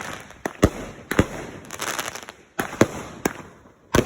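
Fireworks going off: a run of about seven sharp bangs at irregular intervals, with a stretch of crackling about two seconds in.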